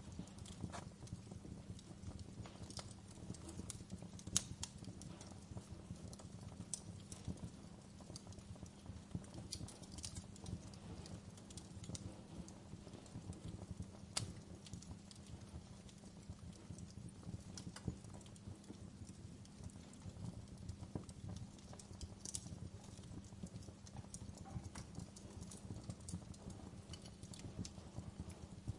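Wood burning in a fireplace: a steady low bed of dense crackling with sharper pops now and then, the loudest about four seconds in.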